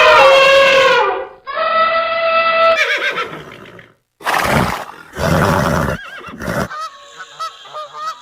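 A horse whinnying: a pitched call early on, then three short, noisy blasts about a second apart, then a quavering neigh near the end.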